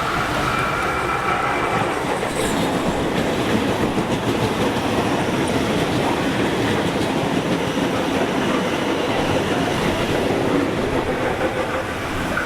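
Sydney electric passenger train passing through a station, its wheels clattering steadily over the rail joints, with a faint whine in the first couple of seconds.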